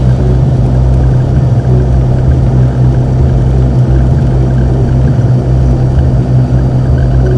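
Beechcraft Bonanza's piston engine and propeller running at steady power in flight: a loud, even low drone.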